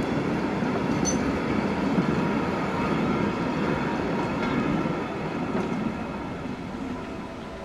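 Vintage passenger coaches of a museum train rolling past, wheels rumbling on the rails. The sound fades over the last couple of seconds as the train moves away.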